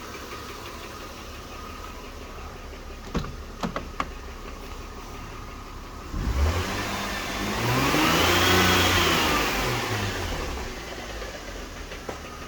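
Mercedes-Benz M272 2.5-litre V6 idling, with a few sharp clicks three to four seconds in, then revved once: the pitch rises over about two seconds and falls back to idle. The persistent noise is believed to be timing chain slap, though it could be the camshaft adjuster sprockets.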